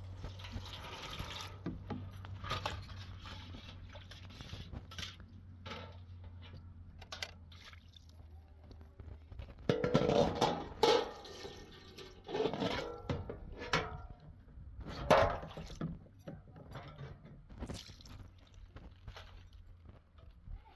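Liquid being handled in a container with scrapes and knocks, over a steady low hum, loudest in a cluster about halfway through.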